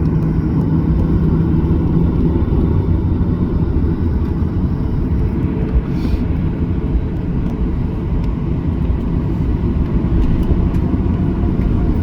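Inside the cabin of a Boeing 737-800 on the ground before takeoff: a steady low rumble from its CFM56 engines at low power. A low hum under the rumble fades out about two seconds in.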